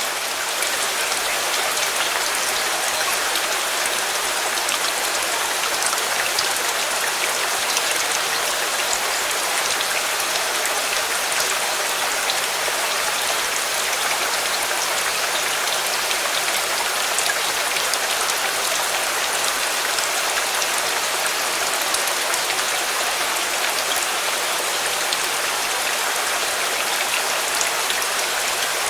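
Steady, heavy rainfall, with many small drops ticking on surfaces.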